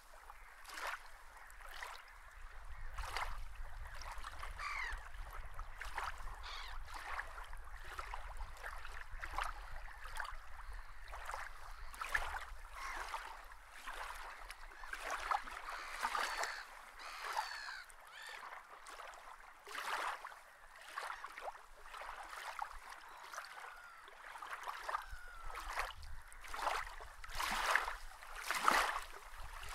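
Birds calling, many short calls one after another, over a low rumble that fades out about three-quarters of the way through.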